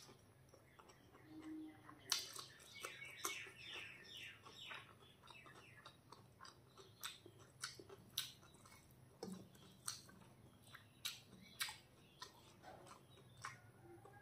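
Close-miked eating sounds of a person chewing a mouthful of rice and curry: wet chewing and lip smacks with scattered sharp clicks, busiest about two to five seconds in.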